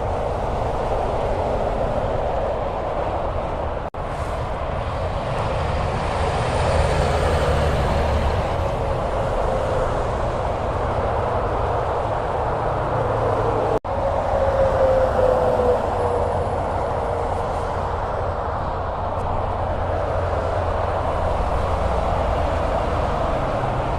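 Steady road traffic noise of trucks and cars on a highway, with a whine that slides down in pitch about two-thirds of the way through. The sound drops out for an instant twice.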